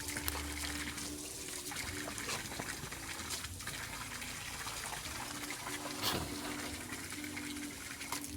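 Water splashing and trickling, with a sharper splash about six seconds in.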